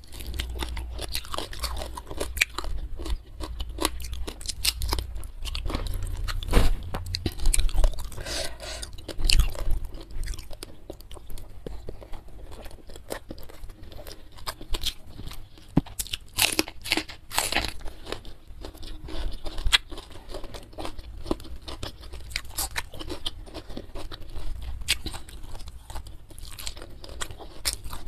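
Close-miked chewing and crunching of a hand-fed mouthful of fried carp, rice and crisp vegetables such as petai beans and young jengkol, with irregular sharp crunches throughout.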